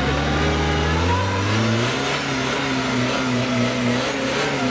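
Off-road 4x4 vehicle's engine running, rising in pitch about a second in as it revs up, then holding at higher revs with small rises and falls.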